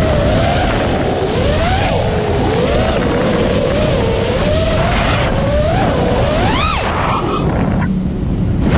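A 5-inch FPV quadcopter's brushless motors whine, the pitch rising and falling with the throttle, over wind rush on the onboard camera's microphone. Near the end the whine swoops up sharply and drops away for a couple of seconds, as the throttle is cut, then comes back hard.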